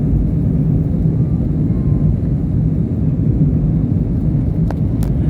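Steady low rumble of an airliner's engines in flight, even in level with no rise or fall, with two faint clicks near the end.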